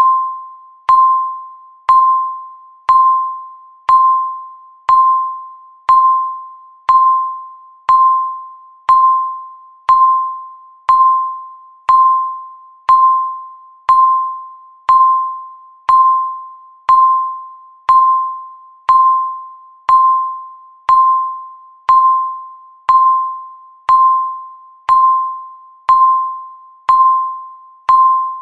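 Countdown timer's tick sound: one short, bell-like electronic ding each second, each starting sharply and fading out before the next, steady and even throughout.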